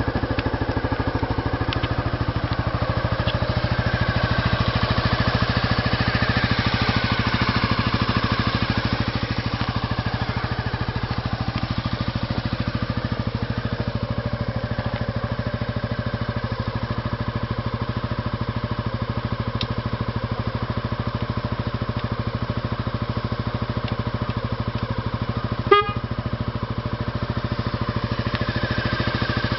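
Honda Forza Z scooter's single-cylinder four-stroke engine running steadily at idle through a Moriwaki aftermarket exhaust, with an even exhaust beat. About three-quarters of the way through there is one short, sharp blip.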